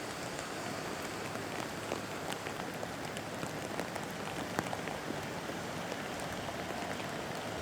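Steady rainfall pattering on hard surfaces, with many individual drop ticks over the constant hiss.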